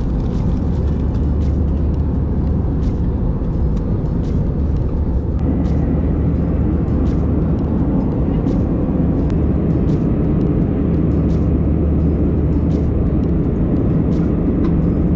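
Airbus A320 with IAE V2527 engines, heard from inside the cabin: a steady, loud rumble of engines and airflow with a low drone, growing a little fuller about five seconds in. Faint light clicks are scattered through it.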